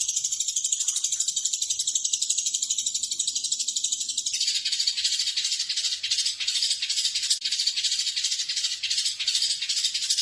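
A songbird's high-pitched, rapid buzzing trill, unbroken at first. About four seconds in it turns to a coarser pulsed rattle of about four pulses a second that reaches lower in pitch, and it stops abruptly at the very end.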